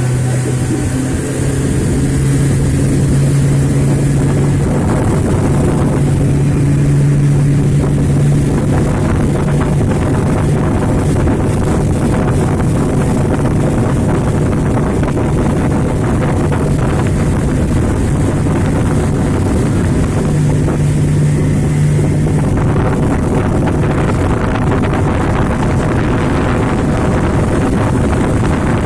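Small motorboat's engine running steadily under way, with wind buffeting the microphone. A low engine hum is strongest in the first several seconds and again about twenty seconds in.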